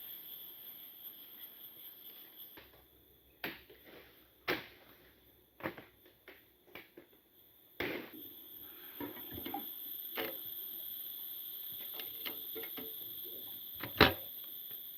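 Steady high-pitched chirring of forest insects such as crickets, with scattered knocks and clatters over it and one sharp knock near the end.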